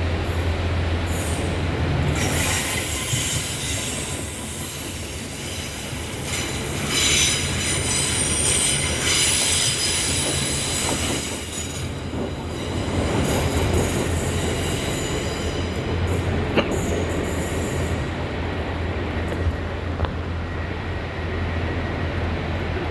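Train running on the rails with a steady low hum and a high-pitched wheel squeal that starts about two seconds in and dies away about halfway through.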